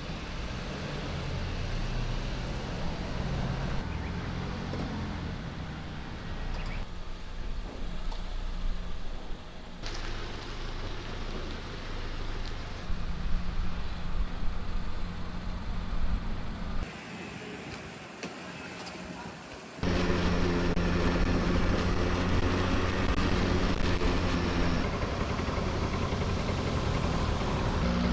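Low, steady engine hum of a motor vehicle under a haze of traffic-like noise. The sound changes abruptly several times as different takes follow one another, loudest in the last third.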